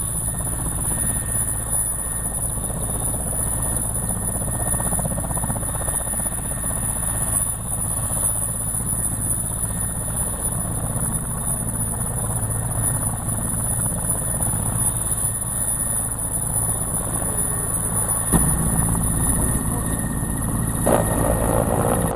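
Helicopter running steadily: a continuous low engine and rotor drone with a steady high whine. A knock comes about 18 seconds in, and the low drone grows louder after it.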